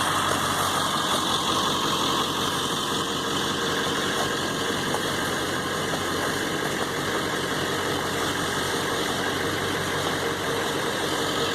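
Pickup truck engine running steadily at low revs, close by.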